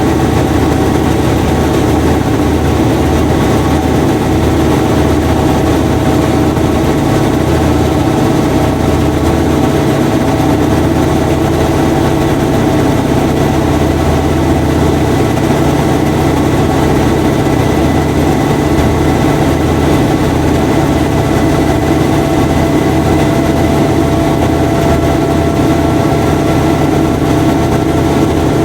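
Washing machine running: a loud, steady motor hum with a few held whining tones over a fluttering low rumble.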